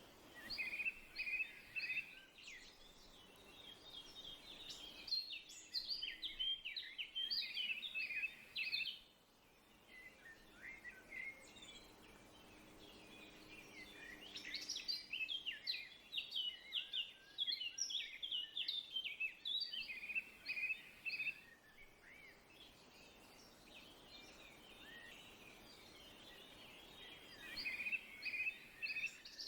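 Songbird singing: runs of quick, high chirping notes in several bursts, with short quieter pauses between them.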